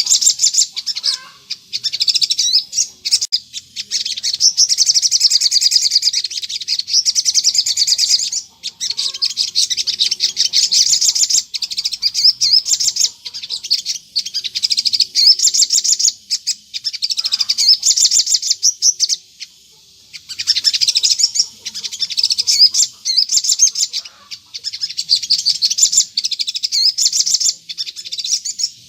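Crimson sunbird (sogon) singing continuously: rapid, high-pitched twittering phrases in bursts of a few seconds each, with short breaks between them.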